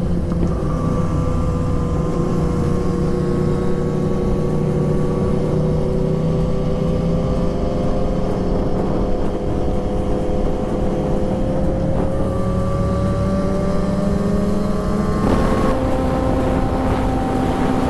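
Aprilia Tuono V4 1100 Factory's V4 engine running under way at a steady cruise, its note drifting slowly in pitch, then jumping to a new steady note about fifteen seconds in.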